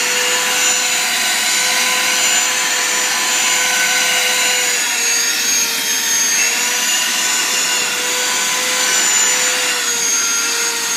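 Vacuum cleaner running steadily as it is used to vacuum a cat's fur. Its high motor whine dips slightly in pitch twice over a constant rush of air.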